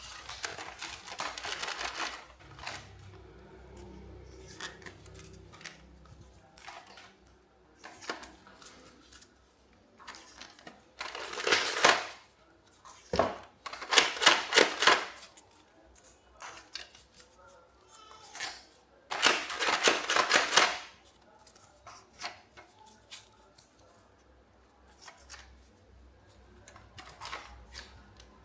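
Plastic toys being handled: irregular clicking and rattling, with three louder bursts of rustling noise about a third and two thirds of the way through.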